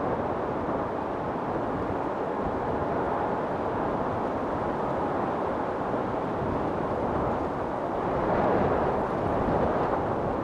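Wind storm blowing steadily, with a gust swelling louder about eight seconds in and easing off before the end.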